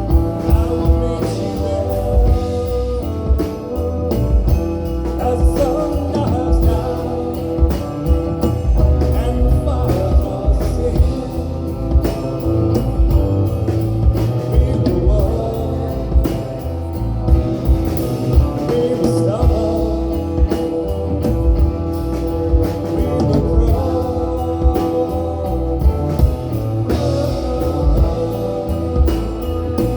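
Live folk-rock band playing an instrumental passage: a steady drum beat under held notes, with guitar, fretless bass, electric cello and drone instruments.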